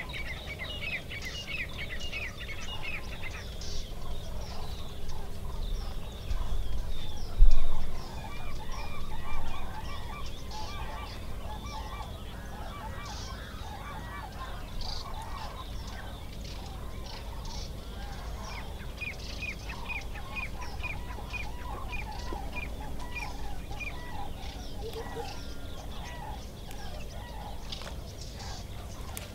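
Several birds chirping and calling in quick short notes, with a few low thumps around six to nine seconds in; the loudest thump comes about seven and a half seconds in.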